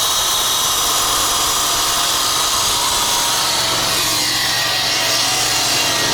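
Electric brick-cutting machine running with a loud, steady high whine.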